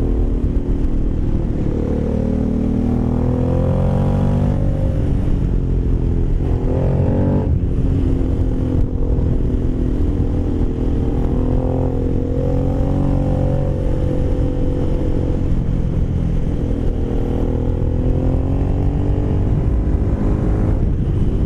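Aprilia Caponord 1200's 90-degree V-twin running through a GPR Furore carbon slip-on exhaust, with a growly note while riding. The engine note climbs and drops sharply at gear changes about four and a half and seven and a half seconds in, then holds at a cruise with gentle rises and falls.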